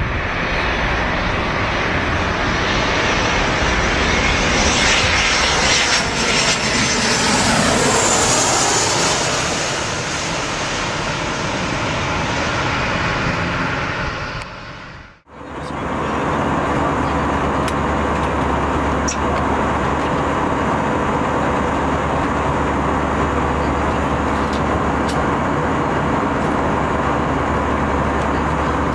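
Loud aircraft engine noise in two recordings joined by a sudden cut about fifteen seconds in. The first holds a high whine that falls in pitch around eight seconds in. The second is a steady engine drone with a strong low hum.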